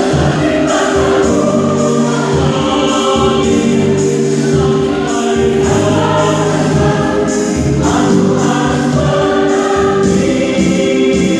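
Mixed choir of women and men singing in Indonesian, holding long chords that change every second or two.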